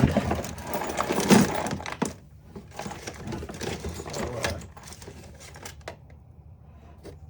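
Metal tools and small parts clinking and clattering as they are handled and rummaged through on a workbench. It is busiest in the first four seconds or so, then thins to a few scattered clicks.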